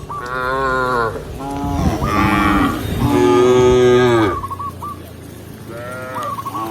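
Cows mooing: several loud moos, one after another, each sliding down in pitch, the longest and loudest about halfway through, then a quieter moo near the end.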